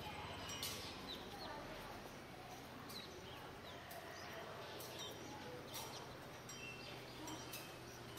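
Faint outdoor ambience with short bird chirps now and then, and a few soft clicks.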